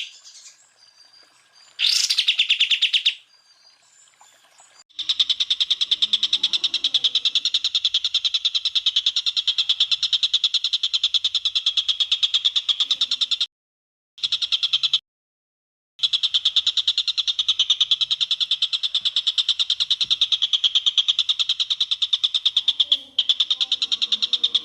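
Greater green leafbird (cucak ijo) singing a long run of rapid-fire 'tembakan' notes, a fast rattling trill of sharp chirps, loud and steady, stopping and restarting abruptly a few times.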